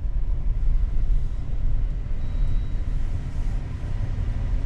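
Steady low rumble of a car, like road and engine noise heard inside a moving vehicle.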